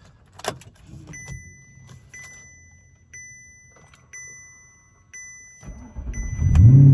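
Cold start of a 2008 Audi R8's mid-mounted 4.2-litre V8 after three days sitting: a few clicks, a dashboard warning chime pinging about once a second, then a brief crank and the engine fires near the end, flaring up in revs and settling into a steady fast idle on the first try.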